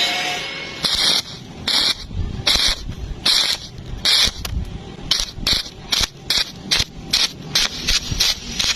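Stick-welding arc struck and broken again and again, giving a series of short crackling hisses, slow at first and then quicker, about three a second near the end.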